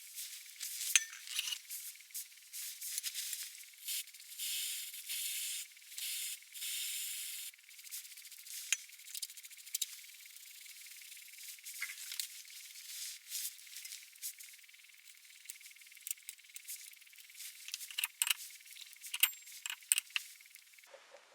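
Small hard objects clinking, clicking and scraping, like metal parts and tools being handled, with a stretch of rubbing about four to seven seconds in; the sound is thin, with no low end.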